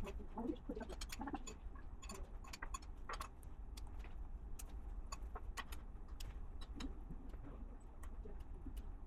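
Small plastic LEGO pieces clicking and rattling as they are handled and pressed together, an irregular run of sharp clicks over a steady low hum.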